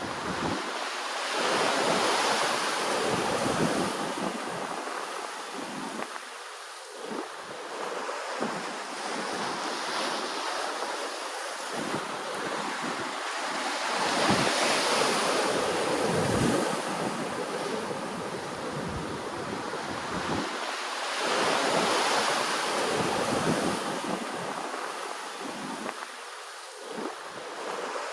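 Ocean waves washing ashore, swelling and easing every several seconds, with some wind buffeting the microphone.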